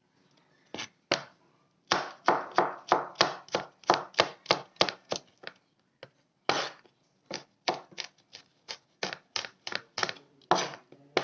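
A knife chopping peeled garlic cloves on a cutting board: sharp strokes about three a second, with a short pause a little past halfway before the chopping picks up again.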